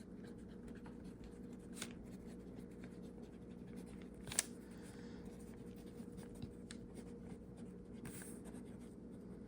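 Fountain pen nib scratching faintly on paper, with a sharper tick a little over four seconds in, over a steady low hum.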